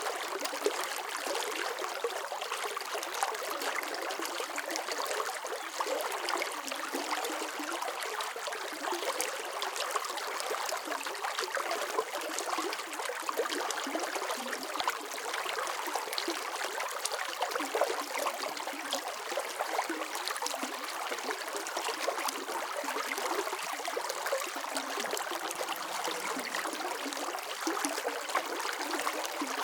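Running water flowing and splashing steadily, a stream-like burble with many small splashes.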